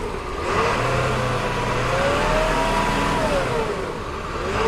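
Dirt bike engine revving up, its pitch climbing and holding, then easing off about three seconds in before picking up again near the end.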